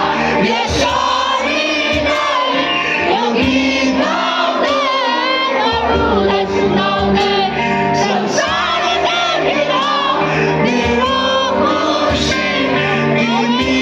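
Live band music with singing, several voices over sustained bass notes and a steady beat.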